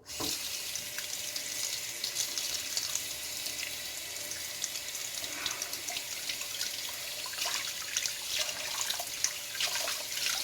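Tap water running steadily into a sink, with small splashes as shaving-soap lather is rinsed off under it; the lather is slow to rinse away.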